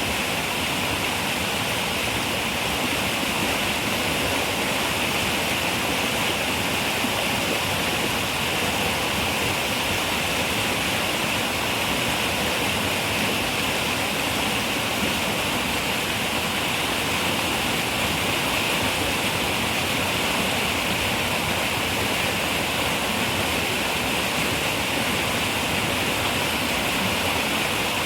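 Steady rush of a river running over rocks, an even, unchanging water hiss with most of its energy in the upper-middle range.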